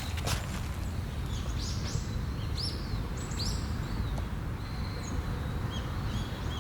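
Small birds chirping several times in short rising and falling calls, over a steady low rumble, with a single footstep just after the start.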